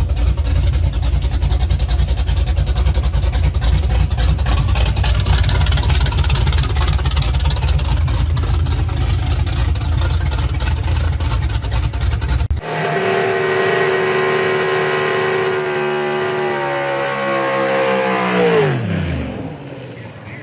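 Gasser drag car engine running loud with a heavy, choppy low rumble. After a sudden change, another engine holds a steady, clear note, then its pitch falls away quickly near the end as it winds down.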